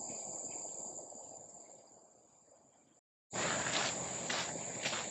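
Steady high-pitched drone of insects, fading out over the first three seconds. After a short break the drone returns, with footsteps at an even walking pace about twice a second.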